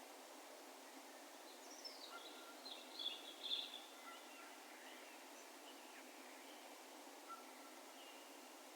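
Distant birds calling over an open field: a falling call and then a quick cluster of high chirps about two to four seconds in, with a few faint thin whistled notes later, over a steady low background hiss.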